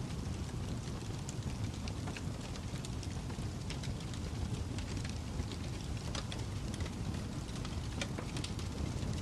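Fire crackling: a steady low rumble of burning with many irregular small pops and snaps scattered throughout.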